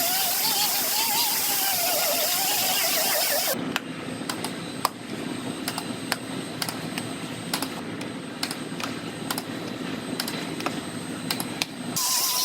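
Grinder running against the truck's sheet-metal bedside, its pitch wavering as it bites, stopping about three and a half seconds in. Quieter scattered clicks and a low hum follow, and the grinding starts again near the end.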